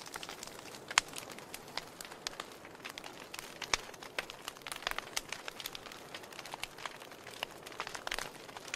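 Wood fire crackling: a steady stream of irregular sharp pops and snaps over a soft hiss, with louder pops about a second in and near four seconds in.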